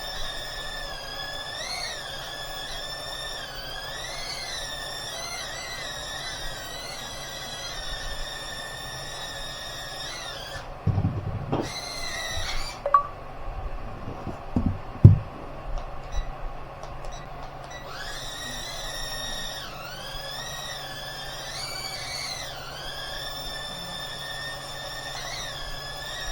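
Toy drone's small propeller motors whining in flight, the pitch rising and falling as the throttle changes. About ten seconds in the whine cuts out, a few thumps follow, and the motors spin up again several seconds later.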